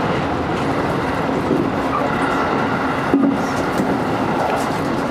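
JR electric local train running along the line, a steady rumble of wheels on rail heard from inside the front car, with a short bump about three seconds in.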